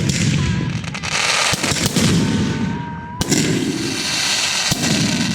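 Fireworks going off: continuous crackling and popping, with a sharp bang about three seconds in and another near the end.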